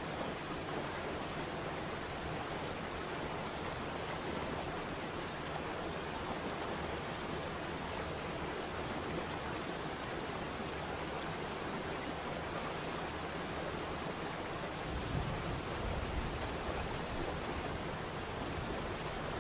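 Waterfall: a steady rush of falling water. About three-quarters of the way through, a deeper rumble comes in.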